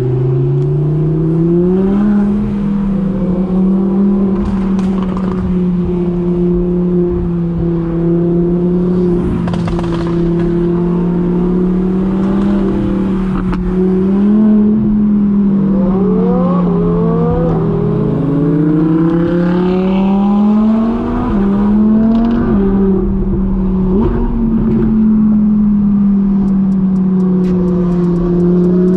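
Car engine running under load, revs climbing during the first two seconds and then holding steady at cruising speed with slight rises and falls. Several short rising revs from another engine come a little past the middle.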